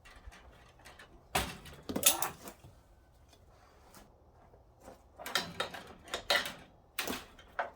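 Pliers working at wire U-hooks on chain-link fencing: a few separate metallic clanks and rattles, with a cluster of them in the second half.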